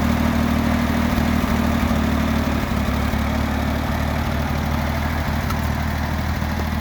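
1973 Ford tractor engine running steadily at a constant low, even pitch.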